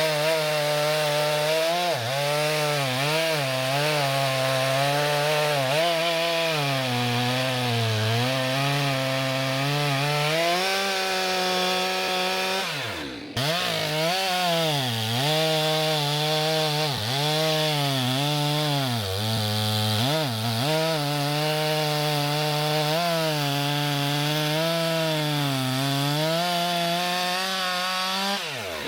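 Two-stroke chainsaw cutting through logs, its engine pitch dipping and recovering again and again as the chain bogs in the wood. It lets off briefly about thirteen seconds in, revs back up, and drops off again near the end.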